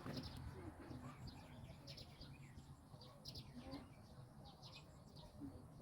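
Faint birds chirping: many short, high chirps scattered throughout.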